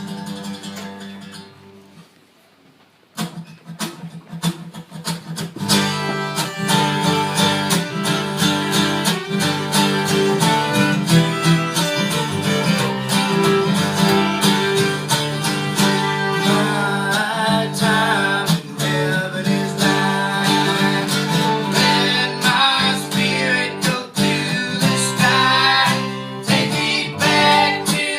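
Live acoustic folk band music: strummed and plucked acoustic guitar with singing, starting up about three seconds in after a brief lull.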